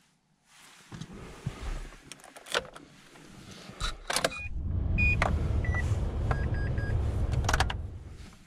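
Clicks and knocks from the car's controls, then the 2007 Mitsubishi Lancer's 1.6-litre 4G18 four-cylinder engine starting about four seconds in. It runs loud for a few seconds, with a few short beeps, and drops back to a quiet idle near the end.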